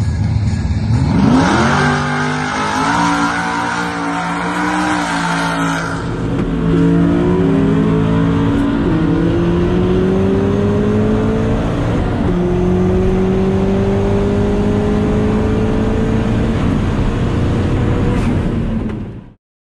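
Drag-race cars accelerating hard away from the line, heard from the grandstand, their engine note rising. About six seconds in the sound switches to inside the cabin of a turbocharged Ford Fiesta ST accelerating hard down the strip: the engine's pitch climbs steadily, drops at an upshift about twelve seconds in, climbs again, and cuts off suddenly near the end.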